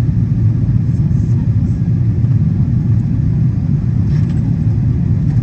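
Steady low rumble of airflow and engine noise heard inside the economy cabin of a Boeing 777-200ER airliner in flight, during its approach.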